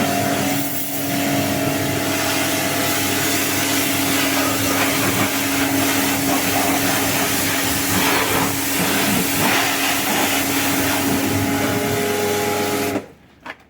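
Electric pressure washer running: a steady motor hum under the hiss of the water jet, cutting off suddenly near the end.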